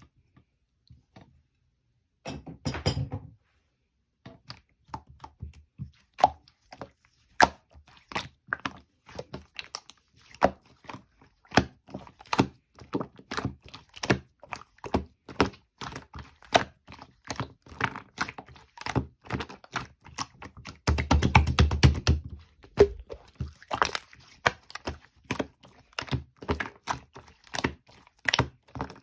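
Slime being squeezed and pressed by hand: a steady irregular run of sharp clicks and pops, with two denser crackling stretches, one a couple of seconds in and one about three quarters of the way through.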